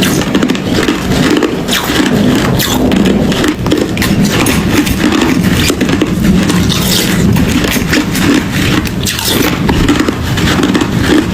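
Hard ice being crunched and chewed: a loud, dense, unbroken run of sharp cracks and crackles.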